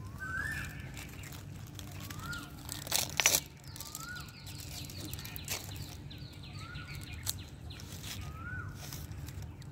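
A bird calling over and over, a short whistled note that rises and falls, about every two seconds. A brief, louder crackling noise comes about three seconds in.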